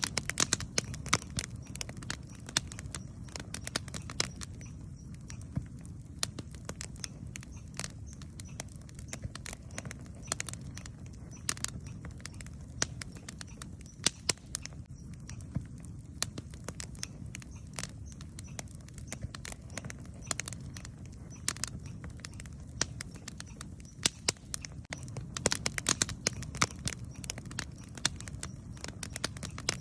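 Campfire burning, the wood crackling and popping in irregular sharp snaps over a low steady rumble, with thicker runs of crackles about a second in and again near the end.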